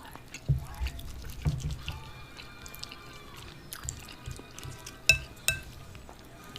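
Close-miked eating sounds: soft wet chewing with mouth smacks and clicks, from a mouthful of grits, sausage and eggs. Two sharper clicks come about five seconds in.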